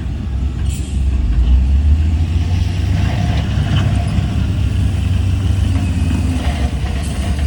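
Heavy diesel earthmoving machinery running steadily with a deep low drone, with a few faint metallic clanks.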